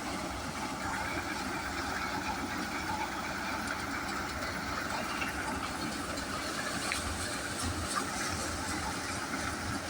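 HMT 5911 tractor's diesel engine running steadily, with a rough, knocking low rumble and no change in speed.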